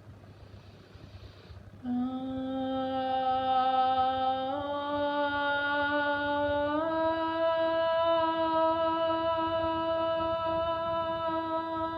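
A single voice toning long, steady held notes. It comes in about two seconds in after a soft hiss, then steps up in pitch twice, holding each new note.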